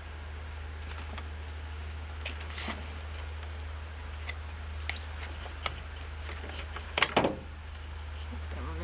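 Scattered small clicks and taps of hands working the wire connectors on a washing machine's drain pump, the loudest a sharp double click about seven seconds in, over a steady low hum.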